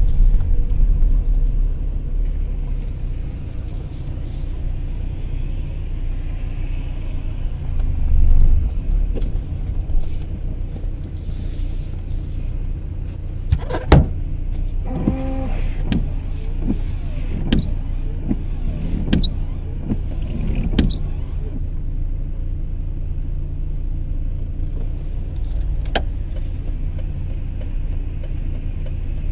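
Car driving, with steady low engine and road rumble picked up by a dashboard camera. About halfway through there is a sharp bang, followed over the next few seconds by a string of smaller clicks and knocks and a brief tone.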